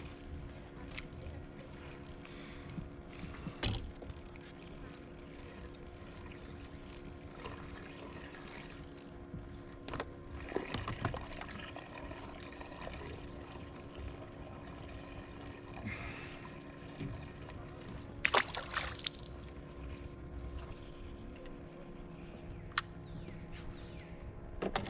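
Water trickling and lapping around a small fishing boat over a steady hum, with a few sharp knocks, the loudest about two-thirds of the way through.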